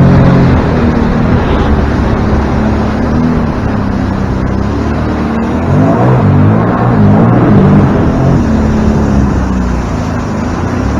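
Small watercraft engine running under way, with a steady rush of wind and water throughout; about halfway through, its pitch falls and rises several times as the throttle changes.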